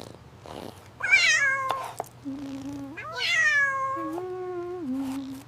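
A cat meowing twice, each call starting high and sliding down in pitch.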